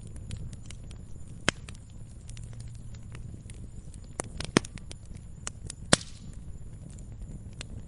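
Wood campfire crackling: scattered sharp pops and snaps at irregular intervals over a low steady rumble. The loudest pops come about a second and a half in, about four and a half seconds in, and near six seconds.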